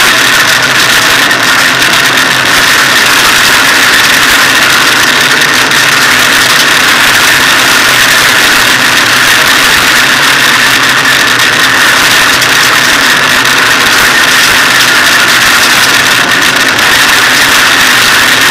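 Hyundai rally car's engine running steadily under way, mixed with loud road and drivetrain noise inside the bare, roll-caged cabin.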